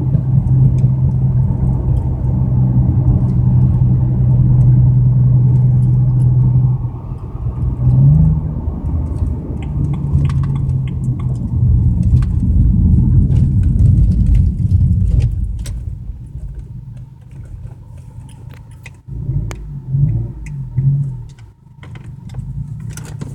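A BMW 335i's turbocharged straight-six pulls steadily under way, eases off about seven seconds in and pulls again, then drops to a quiet idle about sixteen seconds in, with two short rises in pitch near the end. The engine has been misfiring on its rear cylinders, which the owner puts down to a fuel injector stuck open and flooding.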